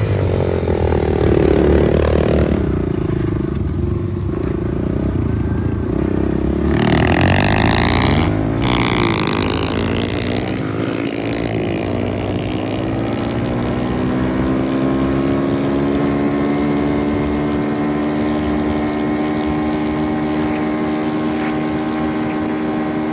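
Pit bike engine running. Its pitch goes up and down over the first several seconds, with a louder rev about seven seconds in, then it holds a steady note that creeps slowly higher.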